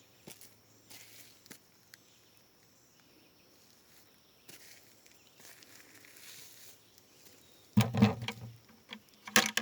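Light rustling and scuffing of footsteps in forest-floor litter, over a faint steady high insect drone. About eight seconds in, and again just before the end, two loud rustling bumps.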